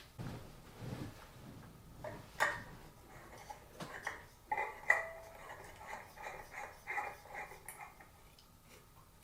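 Filament-style LED light bulbs being screwed into the sockets of a ceiling fan light kit: a few sharp clicks and knocks of glass on metal, the loudest about two and a half and five seconds in, then a run of short squeaky scrapes as a bulb is turned in its socket.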